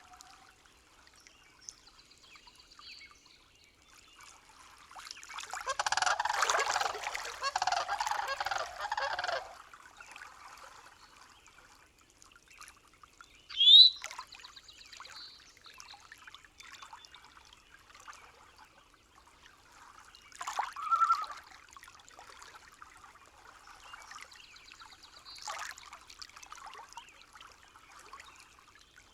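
Nature soundscape of faint trickling water with bird calls. A dense burst of calling lasts about four seconds, a short sharp rising chirp comes near the middle, and another brief call follows later.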